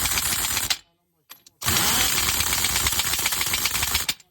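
Pneumatic impact wrench hammering in two bursts, a short one and then a longer one of about two and a half seconds, with a brief pause between.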